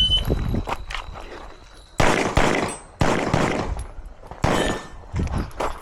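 A competition shot timer's beep cuts off at the start. Then a pistol fires a string of shots at uneven spacing, about one a second, each with a short echo.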